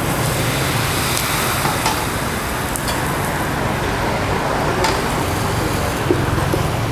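Steady street traffic noise mixed with the sizzle of pancake batter frying in small pans, with a few light clicks.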